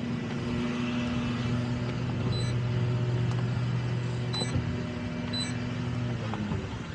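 Boat engine running steadily with an even hum; its pitch drops just after six seconds in.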